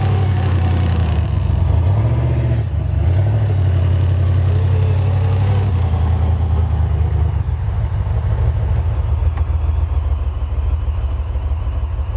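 Engine of a Toyota FJ45 off-road four-wheel drive running, with the revs dipping and rising in the first few seconds, then holding steady and dropping back toward idle in the second half.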